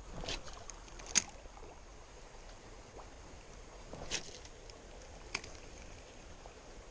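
Shallow, low-running creek water making a faint steady rush, with four light knocks scattered through it.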